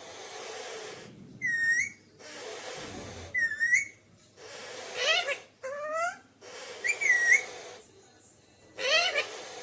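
Alexandrine parakeet giving a run of about six short whistled calls that bend up and down in pitch, with stretches of breathy hissing between them.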